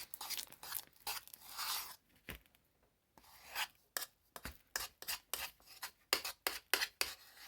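Stiff, freshly activated slime being stirred and scraped in its container. There are quick scraping strokes for about two seconds, a short pause, then a run of short, sharp sticky sounds.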